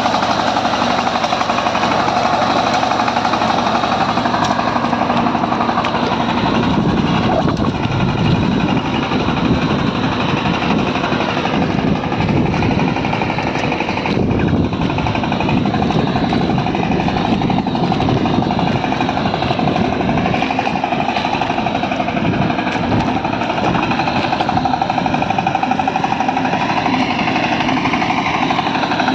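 Kirloskar Mega T 15 power tiller's single-cylinder diesel engine running steadily with a fast, even beat, heavier from about six seconds in.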